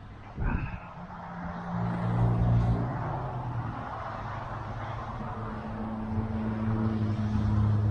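Steady low hum of an engine, growing louder toward the end, with a short thump about half a second in.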